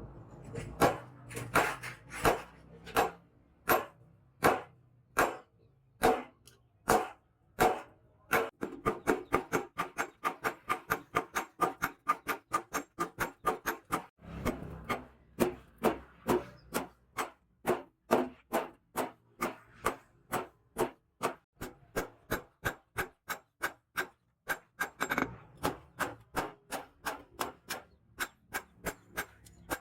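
Hand hammer striking steel on an anvil, forging the blade. The blows come about one a second at first, quicken to about three a second after about eight seconds, pause briefly midway, then carry on at a steady fast pace.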